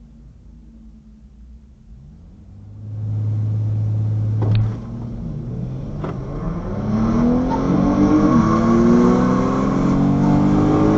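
A drag car's engine is brought up and held at steady revs on the starting line, then the car launches and accelerates hard down the strip. The engine pitch climbs steadily and dips briefly twice as the transmission upshifts.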